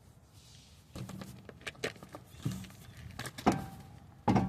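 A heavy steel-and-alloy car wheel being handled: scattered knocks and clanks against the hub and floor, with a low hum starting about a second in and a louder burst of knocks near the end.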